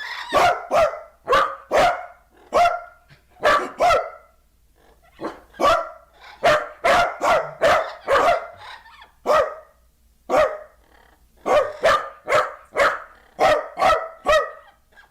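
Repeated barking in quick runs of short, sharp barks, several a second, broken by two brief lulls.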